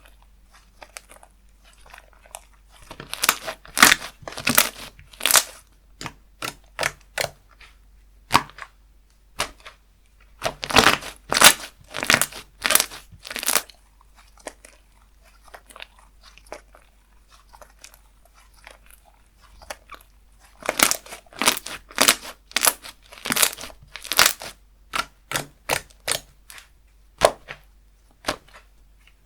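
Slime being squished and pressed by hand, giving sharp crackling pops in three spells with quiet pauses between them.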